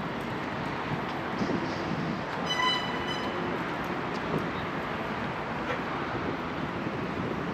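Steady rumble of city noise, with a short high-pitched tone about two and a half seconds in.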